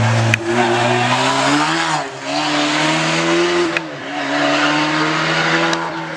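Rally car engine running hard, its note climbing and then dropping at the gear changes, with two sharp cracks at the shifts.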